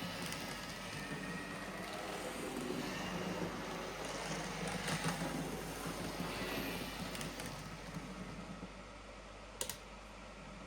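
N gauge InterCity model locomotive running after a motor replacement and service: a steady whir from its small electric motor, light irregular clicking, and one sharp click about nine and a half seconds in.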